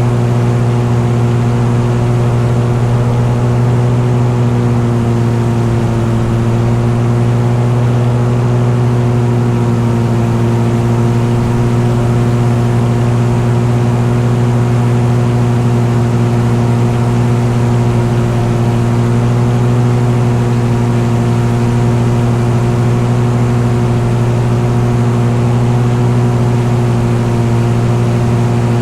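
An engine running steadily at a constant speed, a loud, even drone that holds one pitch throughout.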